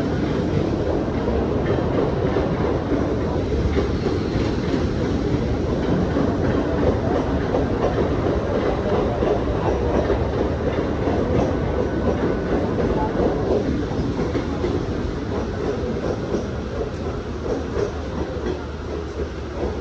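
Mumbai local electric train running along the platform, a steady rumble with wheel clatter over the rail joints.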